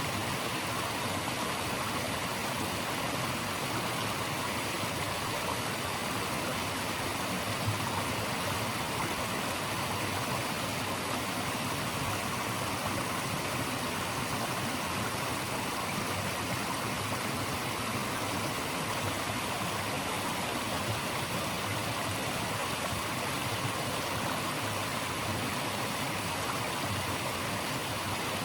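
Steady rushing water of a stream, an even hiss with no single splashes or changes.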